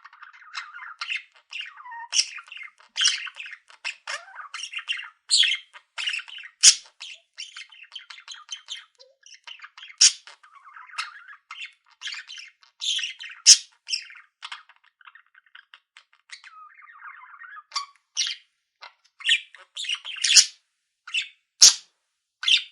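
Budgerigars chattering: a busy, unbroken stream of short, sharp calls and warbling chirps, with a few louder calls standing out above the rest.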